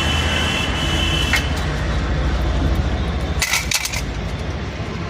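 A vehicle engine running steadily with an even low pulse, and a short metallic clatter about three and a half seconds in.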